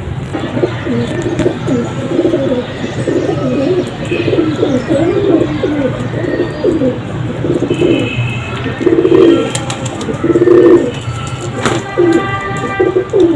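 Domestic pigeons cooing, several birds calling over one another almost without pause, loudest about nine to eleven seconds in.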